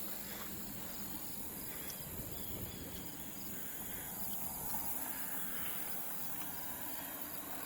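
Insects chirping steadily in late-season grassland, a regular pulsing chirp over a continuous high trill, with a low outdoor rumble beneath.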